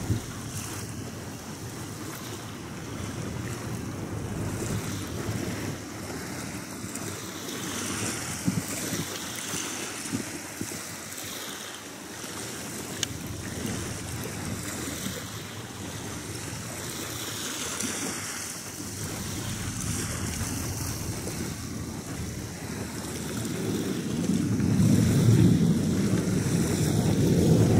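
Steady rushing noise of distant jet aircraft mixed with wind on the microphone. A low rumble swells louder in the last few seconds as the jets draw nearer.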